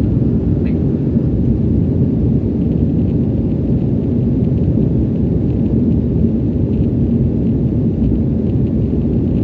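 Steady low rumble inside the cabin of an Embraer E190 airliner after takeoff: its two GE CF34 turbofans and the airflow around the fuselage, with a faint steady hum running through it.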